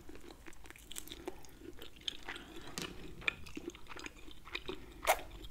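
A person biting and chewing a mouthful of grilled lamb chop meat: a run of soft mouth clicks and small chewing noises, with one sharper click about five seconds in.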